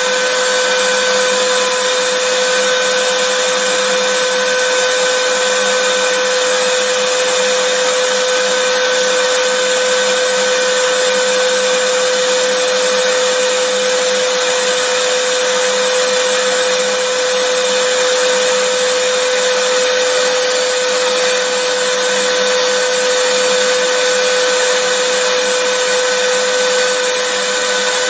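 Vacuum cleaner running steadily: a constant rush of air with a steady mid-pitched motor tone, unchanging throughout.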